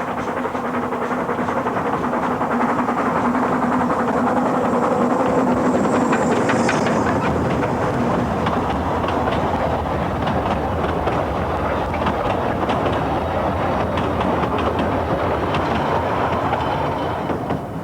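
Narrow-gauge steam locomotive Tom Rolt and its train running past at speed, wheels clicking over the rail joints. It grows louder towards the middle and fades near the end.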